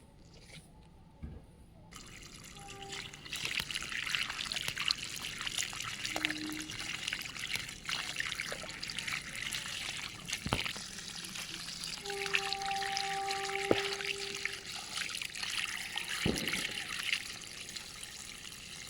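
Water running and trickling, starting about two seconds in, with scattered clicks and a brief squeaky tone about twelve seconds in.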